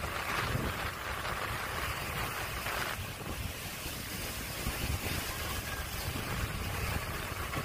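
Passenger train coach rolling slowly, a low steady rumble under heavy wind buffeting on the microphone; a hiss on top eases about three seconds in.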